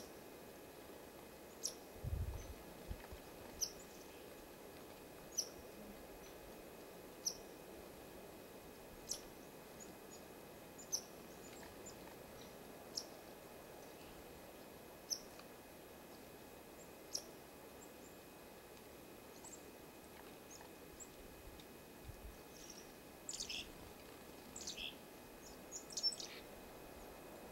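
Small songbirds calling: a single short high chirp repeated about every two seconds, then a quick flurry of several calls near the end.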